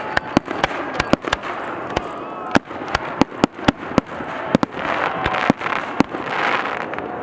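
Fireworks finale: a rapid, irregular barrage of sharp bangs and cracks, several a second, over a continuous din of bursting shells.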